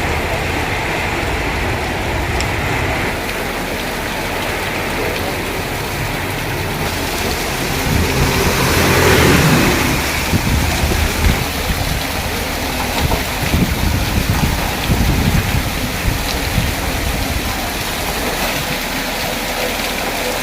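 Heavy rain falling steadily, with a louder swell of noise that rises and falls about eight to ten seconds in.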